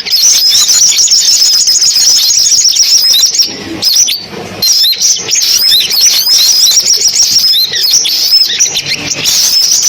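Sunbirds singing: a rapid, continuous stream of high, thin chirps and trills, which thins out briefly about three and a half seconds in.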